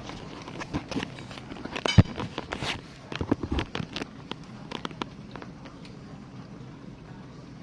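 GE dishwasher running in its main wash with a steady low hum and water noise, overlaid by irregular sharp clicks and knocks for the first five seconds, the loudest about two seconds in.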